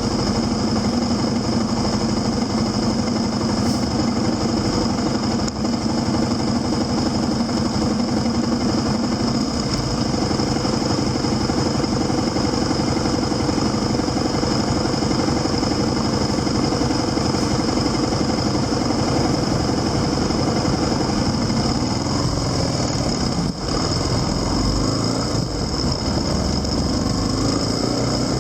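Motorcycle engine running while riding, with steady road noise; the engine's pitch drops about a third of the way through and rises and falls in the last few seconds.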